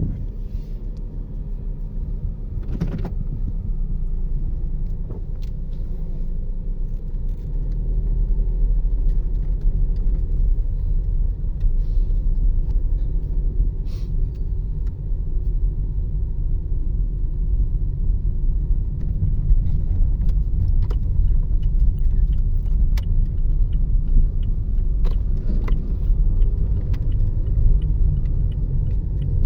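Toyota Yaris driving on the road: a steady low rumble of engine and tyres that gets louder about seven or eight seconds in, with scattered light clicks and rattles.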